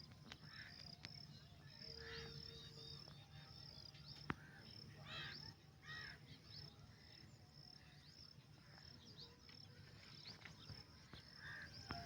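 Faint bird calls, short and repeated at intervals, over a steady high chirping of crickets. A single sharp click about four seconds in.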